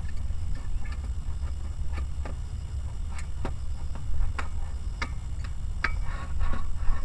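A string of sharp, irregular ticks and knocks, about two a second, with a busier patch near the end, over a steady low rumble.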